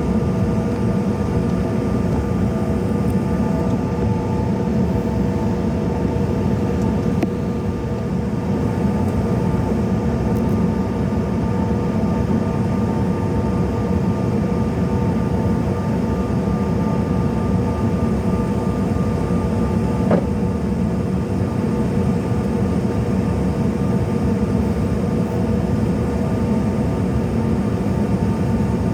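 Steady cabin noise of a CRJ-700 airliner: the constant rush of its two rear-mounted CF34 turbofan engines and airflow, with several steady humming tones over it. A faint click about twenty seconds in.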